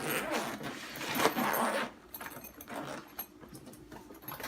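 Nylon military-style backpack being handled and opened, its fabric rustling loudly for about two seconds, then quieter shuffling with a few small clicks and knocks.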